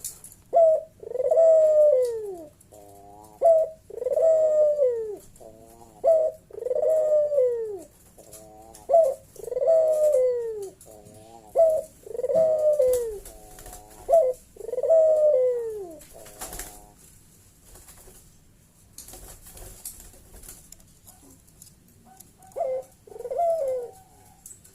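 A puter dove (Barbary dove) calling its bekur coo: about six repeated phrases, each a short note followed by a long falling coo, with quick wavering notes between them. A pause follows, then one more coo near the end. It is a loud, sharp call of the kind used to challenge rival doves.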